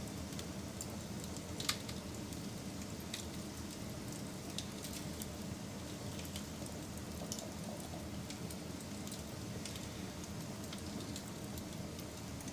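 Wood fire burning steadily with a low rumble and scattered light crackles, and one sharper pop about a second and a half in.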